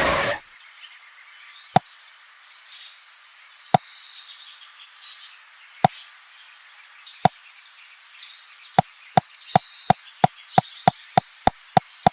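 Sharp knocks or taps, a couple of seconds apart at first, then coming quickly at about three a second from about nine seconds in. Faint high chirps sound in the background.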